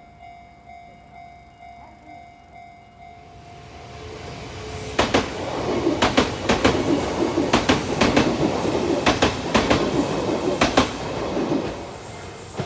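Electric train on the Kintetsu Minami-Osaka Line passing over a level crossing. It builds from about four seconds in and runs loud for several seconds, with its wheels clacking over the rail joints in quick clusters, then fades near the end. The crossing's electronic warning bell rings steadily beneath it.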